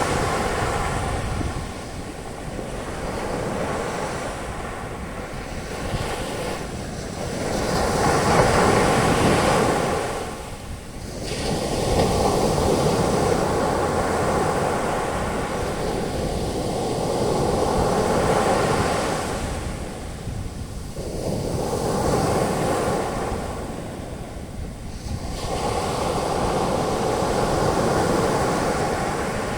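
Ocean waves breaking on a beach, their foam washing in and out in a steady roar that swells and eases every few seconds.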